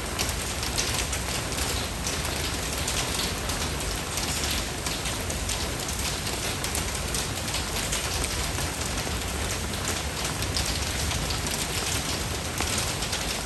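Steady rain falling and pattering on a surface, dense with fine drops.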